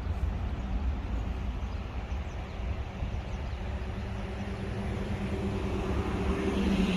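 Low wind rumble on the microphone, with a steady engine hum that grows louder toward the end.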